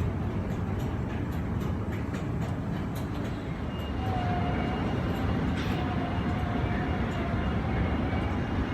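Steady rumbling noise of a vehicle in motion, with a faint wavering tone from about four seconds in.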